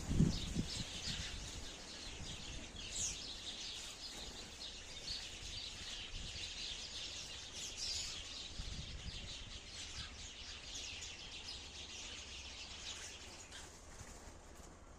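Sparrows chirping: a steady chatter of many short, overlapping high chirps. A low rumble dies away in the first half-second.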